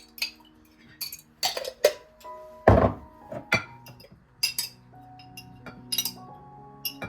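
Dishes and utensils clinking and knocking as they are handled and set down: about ten short, sharp clinks, with one heavier knock a little before the middle. Soft background music with held notes plays underneath.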